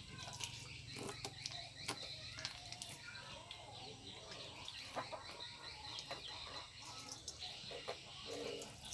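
Faint outdoor background of scattered bird and fowl calls, with short clicks and taps throughout over a low steady hum.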